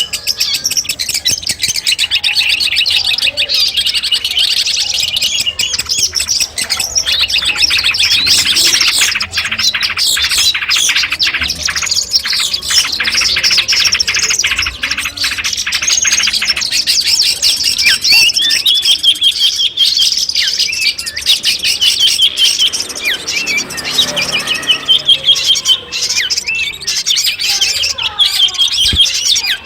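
Long-tailed shrike (cendet) singing a continuous, fast, high-pitched jumble of chattering notes and trills, with a stretch of rapid clicky notes through the middle.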